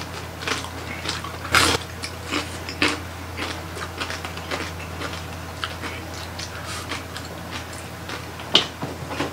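Close-miked eating of roast whole pig (lechon) with crispy skin: irregular wet mouth clicks, smacks and crunches of chewing. The loudest crunch comes about a second and a half in, and a sharp one near the end.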